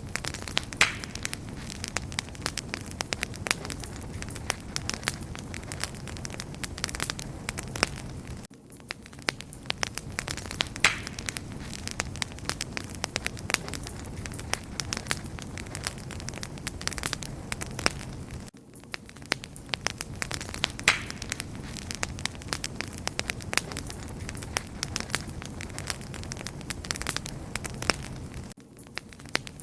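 Wood campfire crackling steadily: dense, irregular pops and snaps over a soft hiss. The same stretch of crackling repeats about every ten seconds, with a brief dip at each join.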